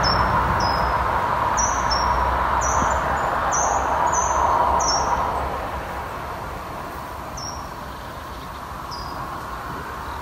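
A small bird giving short, high chirps that slide downward, about one a second, then two more spaced out near the end. Under it a vehicle's rushing road noise fades away over the first half.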